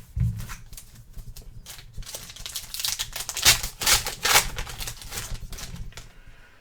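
Trading cards and their packaging being handled: a run of quick clicks and crinkling rustles, busiest in the middle.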